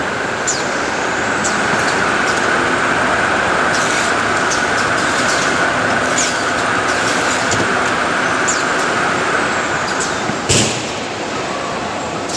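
Toilet paper roll processing machinery running: a steady mechanical din with a whine, regular sharp clicks, and a short loud burst of noise about ten and a half seconds in.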